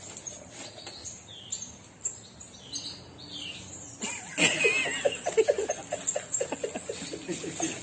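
A pet parrot gives high, short chirping calls. About halfway through comes a louder run of quick, rhythmic vocal pulses with a wavering high note over them.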